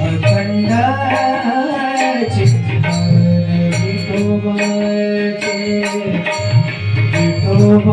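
Marathi Varkari bhajan music: tabla playing a steady rhythm under singing that holds and bends long notes between the words of the line.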